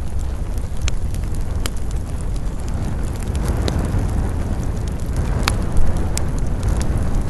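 Wood campfire burning, crackling with scattered sharp snaps and one louder pop about five and a half seconds in, over a steady low rumble.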